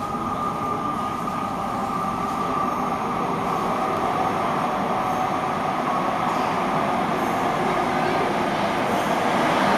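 Electric train approaching through a tunnel into an underground station. Its rumble grows steadily louder, with a high whine over it.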